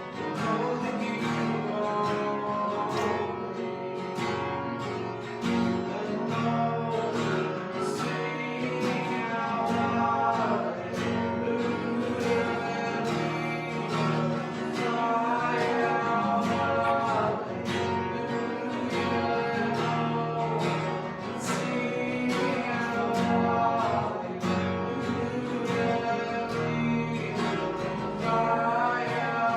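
Worship music led by a strummed acoustic guitar, playing steadily.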